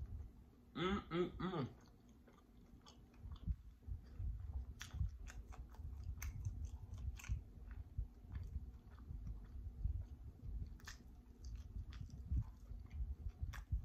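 A person chewing and biting into homemade pizza, close to the microphone, with wet mouth clicks and smacks. A short hummed vocal sound comes about a second in.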